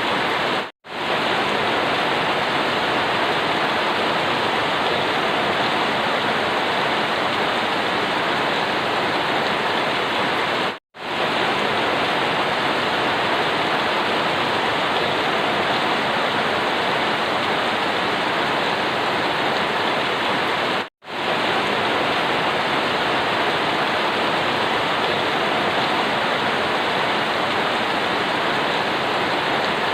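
Steady heavy rain, an even rushing hiss that cuts out to silence for a split second about every ten seconds, three times.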